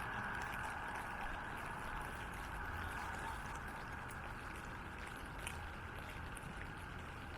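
Steady hiss of rain and running water on a wet street, easing slightly, with scattered light ticks of drops.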